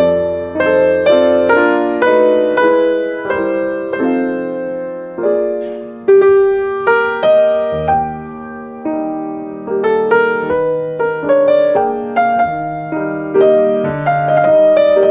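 Slow, gentle solo piano music: single struck notes and chords that ring and fade one after another over a soft low bass line.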